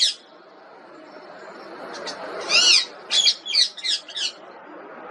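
Parrot calling: one high arched call about halfway through, followed straight away by a quick run of four short, sharp notes.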